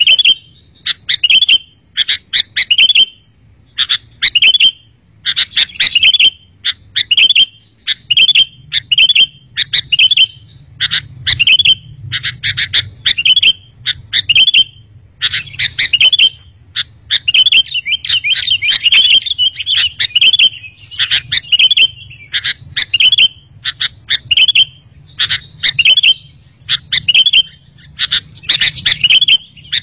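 Sooty-headed bulbuls calling: short bursts of chirpy notes repeated about once a second, several overlapping at times, over a faint low hum.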